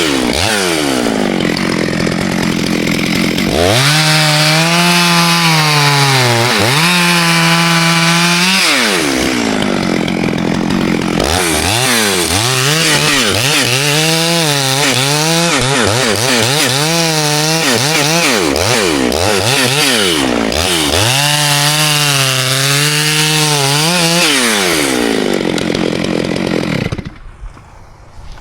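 Two-stroke chainsaw running at high revs while cutting wood. Its engine pitch sags under load and climbs back again and again, then it cuts off near the end.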